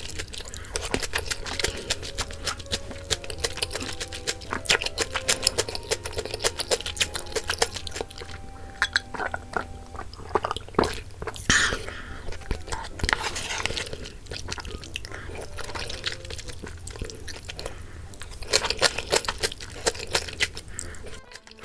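Close-miked mukbang eating sounds: chewing and crunching of rice-cake and dumpling soup with kimchi, with many small sharp clicks and wet mouth noises.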